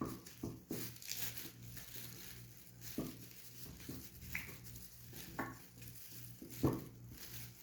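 Small plastic clicks, knocks and rustling as a car side mirror's base and its wiring harness are handled and pulled through, over a steady low hum. The sharpest knock comes near the end.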